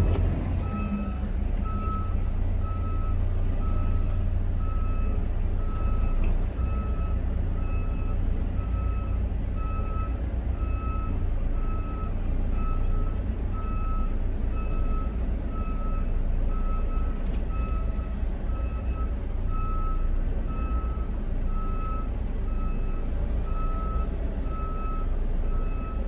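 Semi truck's backup alarm beeping about once a second as the tractor-trailer reverses into a parking spot, over the steady low rumble of its diesel engine.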